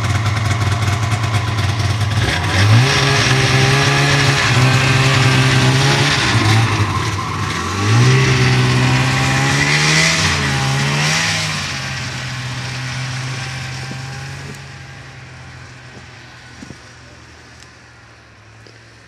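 Snowmobile engine revving up sharply twice, about two and a half and eight seconds in, and holding at high revs in between. It then settles to a steady pitch and fades away gradually over the second half.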